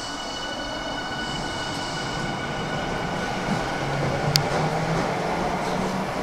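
Tokyu 5000-series electric train pulling away from the platform: steady whining tones from the drive fade over the first few seconds, then a low hum climbs in pitch as it gathers speed, with wheel and rail noise throughout. A single sharp click comes a little over four seconds in.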